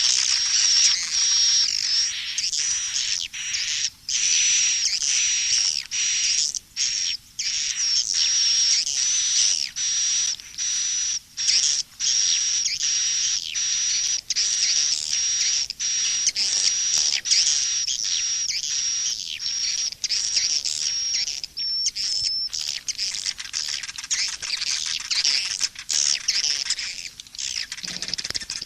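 Swiftlet lure recording: dense, continuous chirping and twittering of swiftlets with a thin steady high tone running through most of it and a few brief gaps. It is the calling mix played in swiftlet farming to draw swiftlets into a nesting house.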